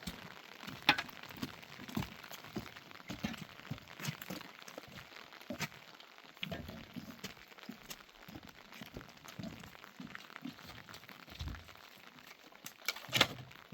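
Scattered sharp clicks, light knocks and crinkling rustles, as of objects being handled; a louder knock near the end.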